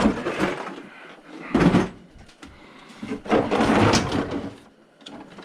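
Metal tool drawer sliding open and shut with tools clattering as they are rummaged through, in three separate bursts, the longest near the end.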